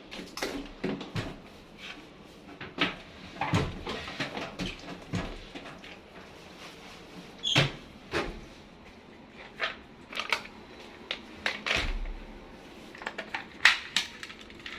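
Irregular knocks, clicks and clatter of hard parts being handled while a front-loading washing machine is taken apart.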